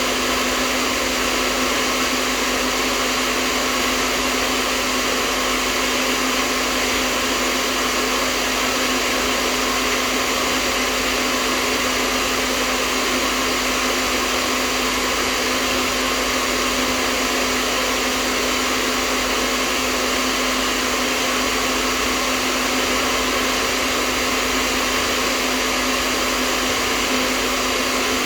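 Hair dryer running steadily: an even, unchanging rush of air with a steady hum underneath, used as white noise.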